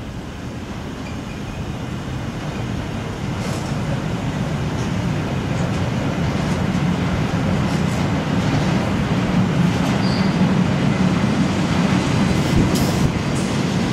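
Electric freight train with car-transporter wagons rolling past, its steady rumble growing louder as it nears. Brief high wheel squeals and clicks come in the second half.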